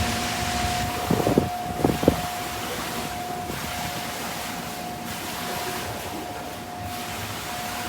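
Car wash machinery running: a steady rushing hiss with a constant high whine. A few brief knocks come between one and two seconds in.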